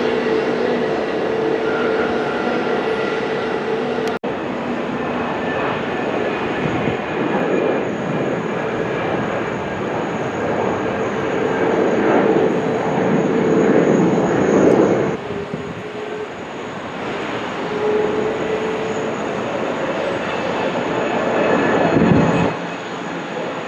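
Jet airliner engines running, a steady rumble with a high whine. The sound drops out for an instant about four seconds in, then swells twice, near the middle and near the end, each time falling off sharply.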